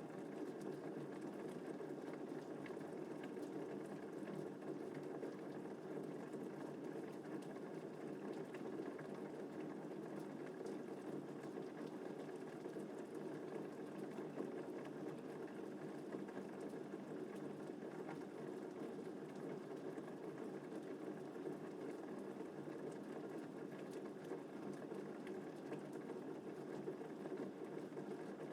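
Steady rain falling, an even wash of many drops with faint scattered ticks.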